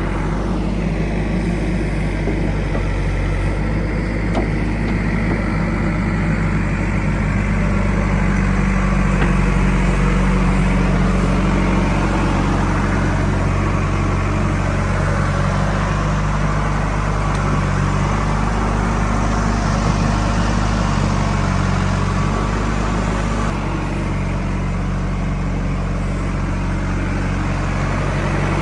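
Heavy diesel engine of a tractor or backhoe loader running steadily, its note shifting slightly near the end.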